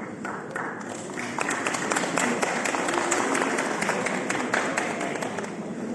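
Audience applauding: a few scattered claps at first, filling into steady applause about a second in, then dying away near the end.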